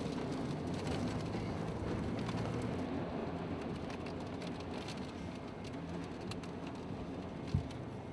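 Steady storm noise of wind and rain, a low rumble with a hiss over it, and a single thump near the end.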